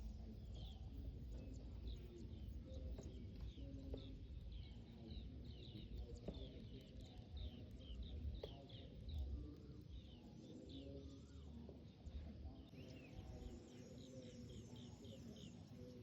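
Small birds chirping faintly: many short, high, falling chirps in quick runs, over a low rumble.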